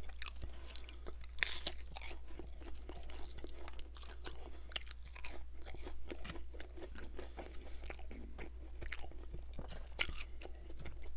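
Close-miked chewing of crispy McDonald's Chicken McNuggets, with many small irregular crunches.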